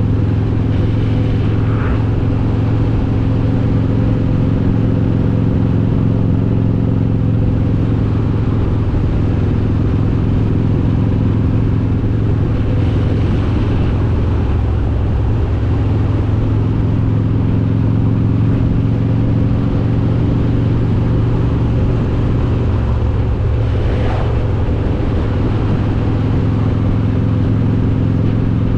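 Harley-Davidson Road King's S&S 95-cubic-inch V-twin with Super Stock heads running under way, a steady low engine note with a few small shifts in pitch as the throttle changes.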